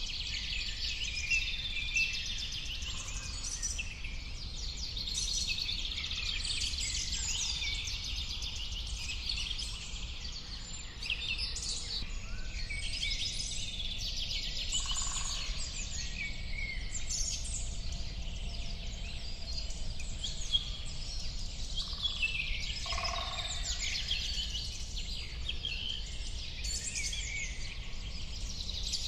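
Many birds chirping and singing at once, a dense chorus of high chirps and trills, over a low steady rumble.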